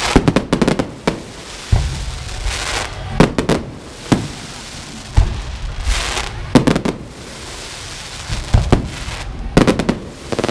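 Fireworks going off in a salute: loud, sharp bangs at irregular intervals, several in quick clusters, with hissing rushes between them.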